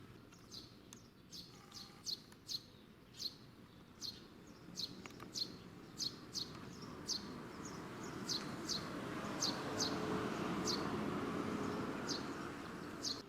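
A small bird chirping over and over in short, sharp, high notes, about one or two a second. In the second half the low rush of a passing vehicle swells and then fades.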